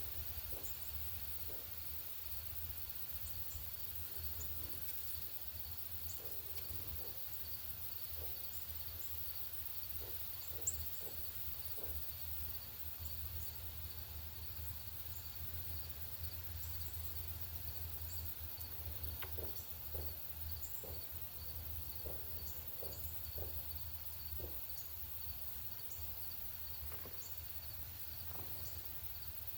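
Outdoor ambience: an insect trilling steadily in even pulses, short high bird chips scattered throughout, and a steady low rumble underneath. One sharp click about eleven seconds in.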